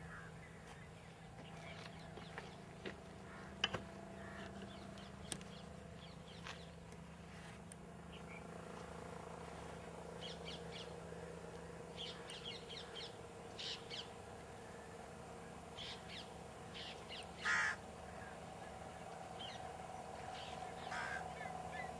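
Birds calling at a wetland: many short, scattered calls, the loudest about three-quarters of the way through, over a steady low hum.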